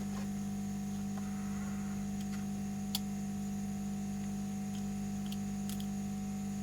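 Steady electrical hum from the workbench equipment, with a few small clicks of handling parts on the bench and one sharper click about three seconds in.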